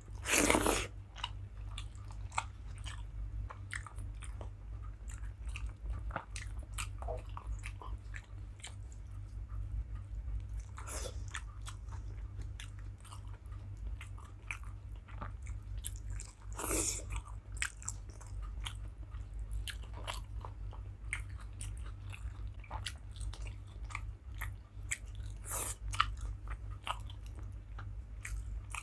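Close-up sounds of a person eating: steady chewing with small wet mouth clicks and smacks, broken by a few louder crunches.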